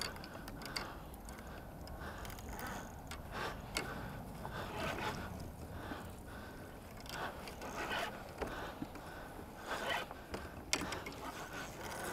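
Irregular scrapes and clicks of fishing tackle being worked in a kayak during a fight with a kingfish, likely the reel and rod against the hull.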